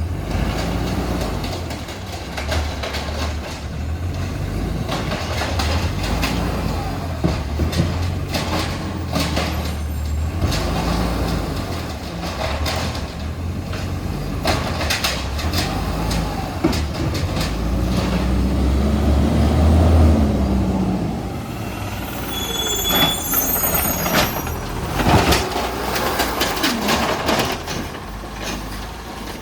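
Recycling truck's engine running with repeated clanks and bangs, its pitch rising and falling for a few seconds in the middle as it revs.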